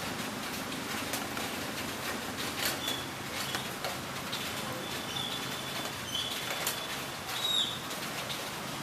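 Rain falling steadily, with many small drop ticks. Over it come a few thin, high, steady whistle-like tones from about the middle to near the end, the last one bending in pitch.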